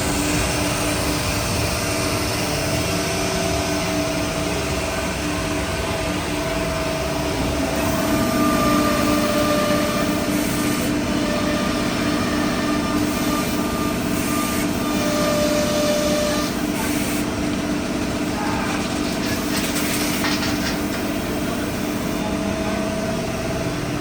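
2017 SCM Pratix S15B CNC router running: a steady mechanical drone with several held tones, a higher tone joining about eight seconds in and dropping out around sixteen seconds.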